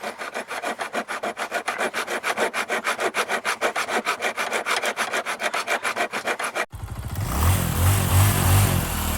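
Rapid, even scraping strokes, about eight a second. About two-thirds of the way in they cut off sharply, replaced by a louder engine running and revving.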